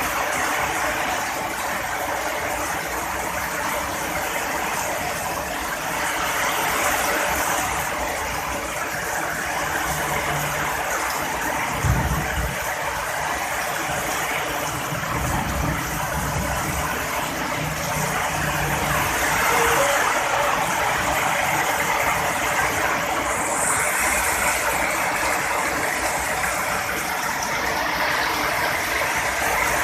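Heavy rain falling steadily, with a short low thud of thunder about twelve seconds in and a low rumble of thunder a few seconds later.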